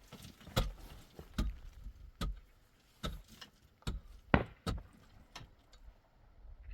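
A series of sharp, separate knocks, roughly one every second, some louder than others.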